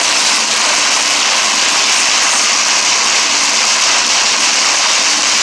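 Hail falling hard: a dense, steady rush of hailstones striking surfaces.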